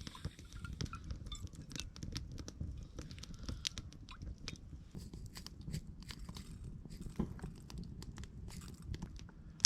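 Scattered small clicks and crunches of hands handling cooking ingredients and utensils, irregular throughout, over a low rumble.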